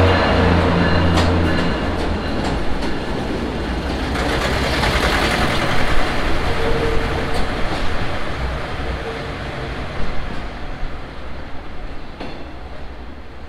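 A slow work train passing close by on subway track: an engine hum at first, then a steady rail rumble with scattered wheel clacks over rail joints, fading as the train moves away.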